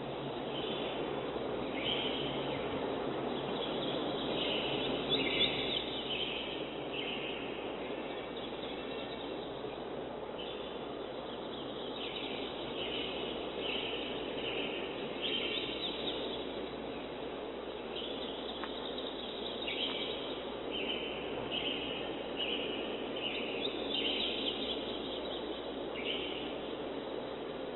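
Birds chirping in many short, repeated calls over a steady background rush.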